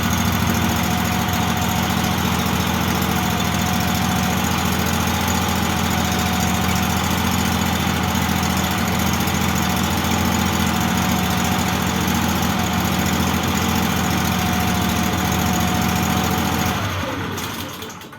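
Lifan 24 hp petrol engine of a mud-motor outboard running steadily at idle, then shut off near the end, its pitch falling as it runs down to a stop.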